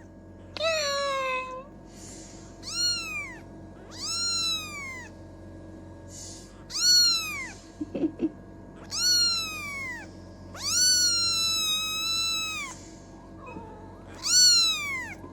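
A domestic cat meowing seven times, each loud call rising and then falling in pitch, one of them drawn out for about two seconds. The cat is wet from a bath and upset, which its owner reads as angry.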